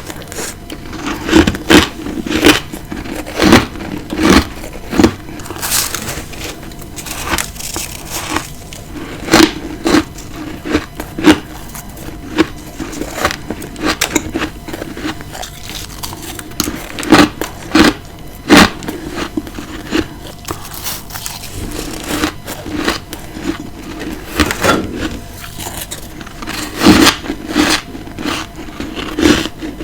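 A person biting and chewing ice close to the microphone: irregular crisp crunches, some much louder bites among softer chewing.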